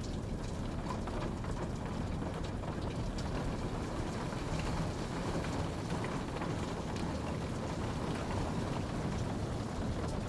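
Steady rain falling, an even low patter with scattered individual drops ticking through it.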